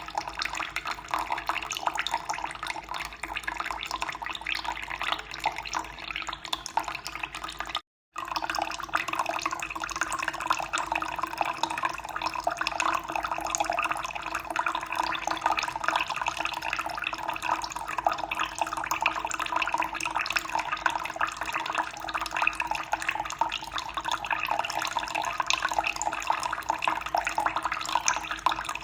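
Running water flowing and splashing steadily. It cuts out completely for a split second about eight seconds in, then resumes.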